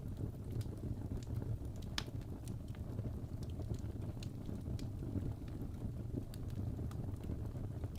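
Wood fire crackling: irregular sharp pops and snaps over a low, steady rumble, with one louder pop about two seconds in.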